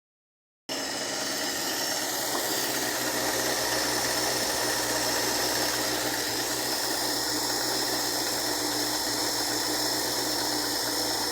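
A freshly repaired engine running steadily, its steady mechanical note sitting over a haze of noise.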